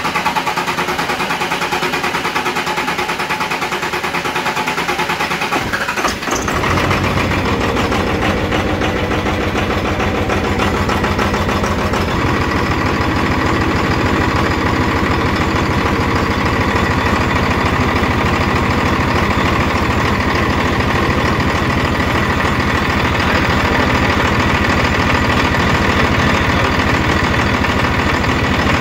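Twin-turbo 24-valve 5.9 Cummins diesel cranking on the starter for about six seconds after its new VP44 injection pump has been bled, then catching about six seconds in and settling into a steady idle.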